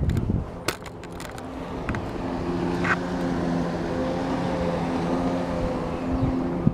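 An engine drones at a steady pitch, growing louder over the first couple of seconds and then holding, with a few sharp knocks near the start.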